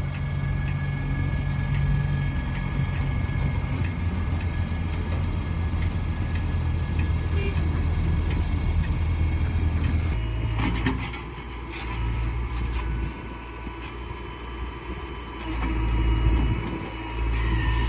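Heavy diesel engine running steadily. About ten seconds in come a few metallic clanks, and then the engine note falls and rises again.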